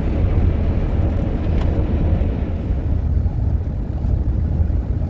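Steady low rumble of road and engine noise inside a minivan's cabin while driving on the interstate.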